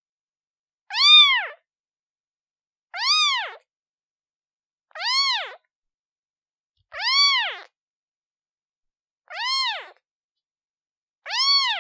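A newborn kitten meowing for its mother: six separate meows about two seconds apart, each rising and then falling in pitch, with silence between them. The last meow is cut off at the end.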